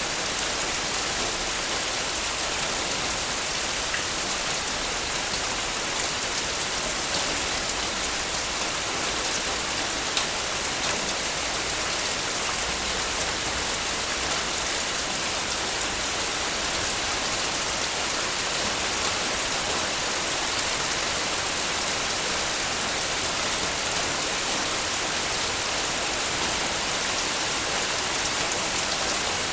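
Heavy rain falling steadily, a dense hiss of drops with a few sharper drop ticks about ten and sixteen seconds in.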